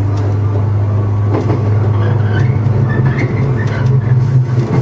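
Running noise of a JR 115 series electric train, heard from inside the driver's cab as it moves along the track: a steady low hum with a few faint clicks.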